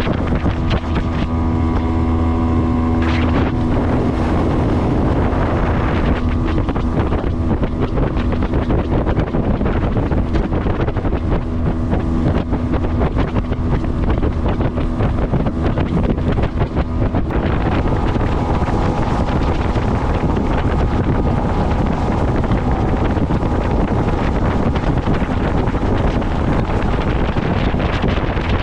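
Motorboat engine running under way, with heavy wind noise on the microphone; the engine tone shifts about three seconds in, and the sound changes abruptly a little past halfway.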